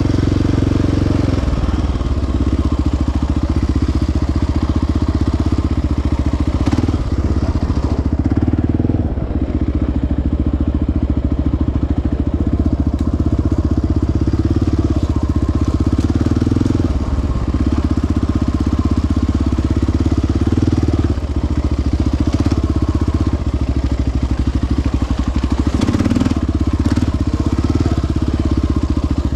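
Single-cylinder four-stroke ATV engine running as the quad rides along a trail, its engine speed changing a few times with the throttle.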